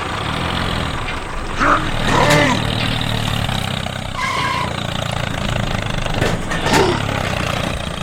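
Tractor engine idling steadily, with a few short voice sounds over it.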